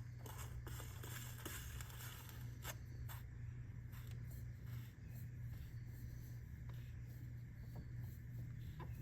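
Light scrapes and scattered clicks of a new oil filter being handled and screwed on by hand onto a 2021 Subaru Forester's top-mounted filter housing. The clicks are busiest in the first few seconds. A steady low hum runs underneath.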